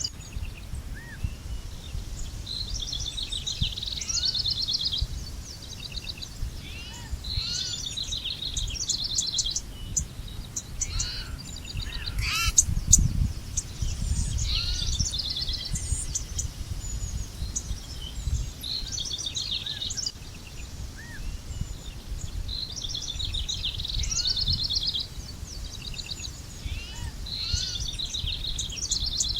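Songbirds singing outdoors: short trilled song phrases repeat every few seconds, with scattered thin chirps between them. A steady low rumble runs underneath and swells briefly about halfway through.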